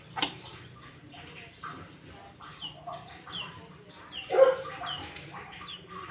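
A bird calling over and over with short falling chirps, about one or two a second, with a sharp knock just after the start and a louder, lower sound about four seconds in.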